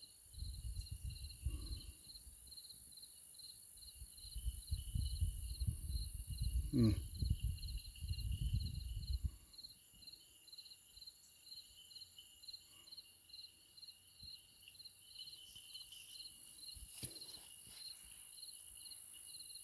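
Crickets chirping steadily in a chorus, about two chirps a second, with a low rumble under them through roughly the first half.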